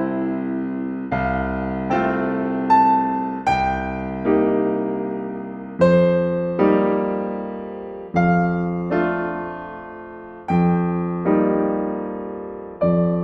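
Slow, gentle solo piano music: soft chords struck about once a second and left to ring and fade.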